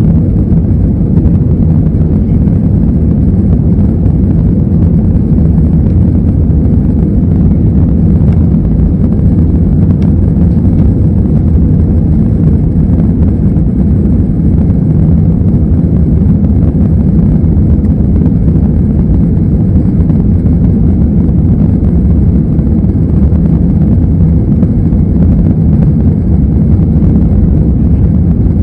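Airbus A320's jet engines running during takeoff: a loud, steady low rumble that holds without change.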